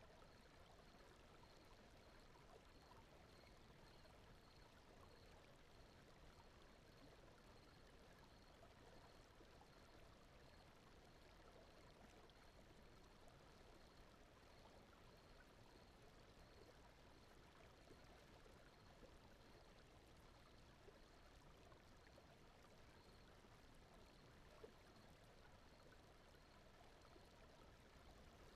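Faint, steady rushing noise like a flowing stream, a sleep-sound ambience bed, with a faint high chirp repeating at an even pace throughout.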